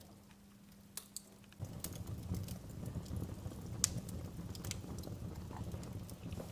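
Fire in a fireplace crackling, with scattered sharp pops and one louder pop near the middle. About a second and a half in, a low rumble of the flames comes in suddenly and carries on under the crackles.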